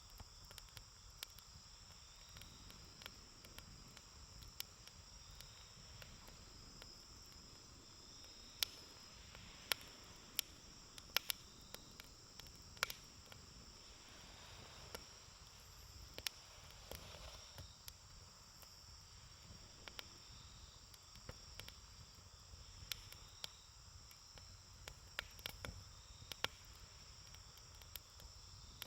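Campfire crackling, with irregular sharp pops and snaps of burning wood, over a steady high chirring of insects.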